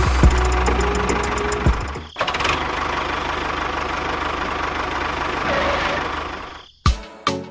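A small engine running steadily, briefly cut off about two seconds in and then going on, before fading out near the end as music starts.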